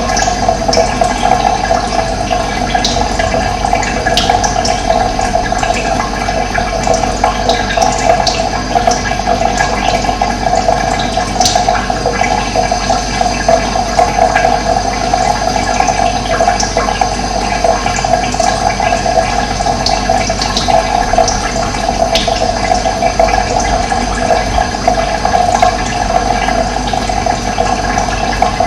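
Running water flowing steadily, a continuous rush with a few brief high-pitched sounds scattered through it.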